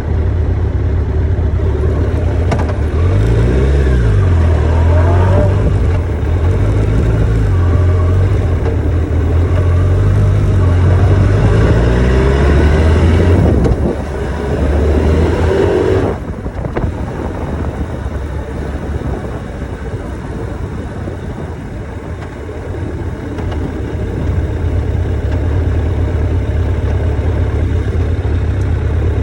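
Motorcycle engine running under throttle, its pitch climbing and falling several times. About halfway through the throttle closes and the engine drops to a quieter, steady note.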